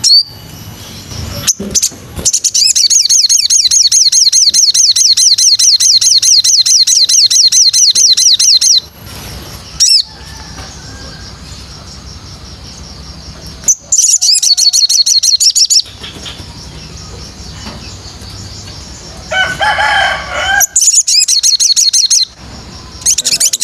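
A songbird singing long, rapid trills of high repeated notes, the longest lasting about six seconds, with shorter trills later and a brief lower chattering call near the end. This is song used as training material for white-rumped shamas (murai batu).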